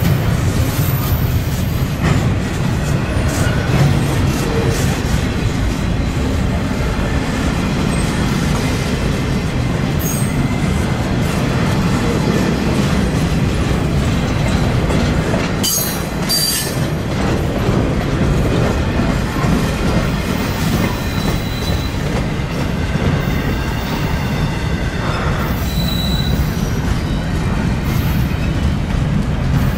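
Double-stack intermodal train's loaded well cars rolling past: a steady rumble and rattle of steel wheels on rail, with a few brief high wheel squeals.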